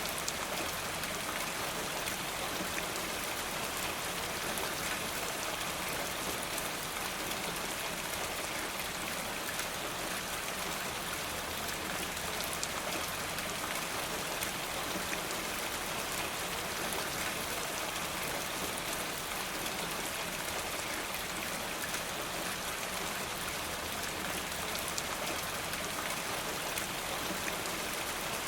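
Steady rain falling: an even hiss with small scattered ticks.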